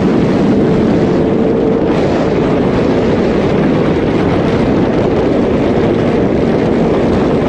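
Sport bike riding at speed: a steady engine note under a loud, even rush of wind noise.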